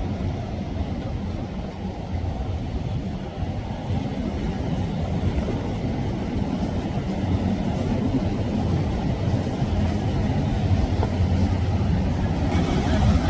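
Steady low rumble of a motorboat under way: engine noise mixed with water and wind noise.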